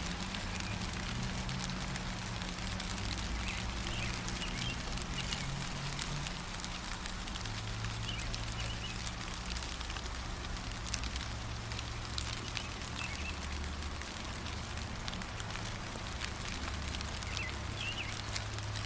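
Steady gentle rain with fine drops pattering, and a small bird giving short chirps every few seconds, over a low steady rumble.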